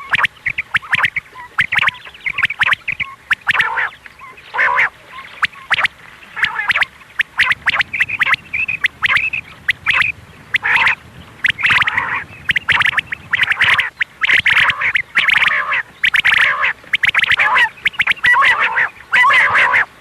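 Female quail giving short rasping calls, over and over in quick runs, as in a quail-hunting call recording.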